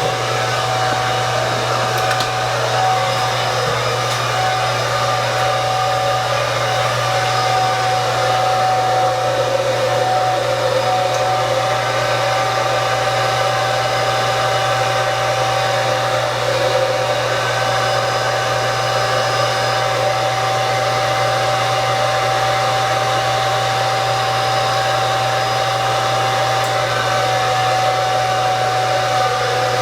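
Handheld hair dryer running steadily at full blow, a constant rushing of air with a steady whine from the motor, while it dries thick, wavy hair.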